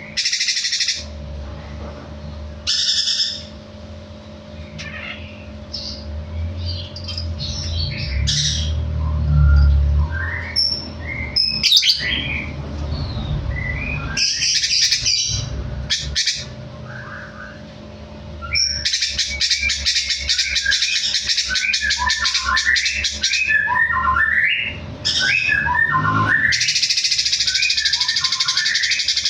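A songbird singing: short sharp bursts, then many quick varied notes, then two long passages of rapid, harsh chattering in the second half. A steady low hum runs underneath.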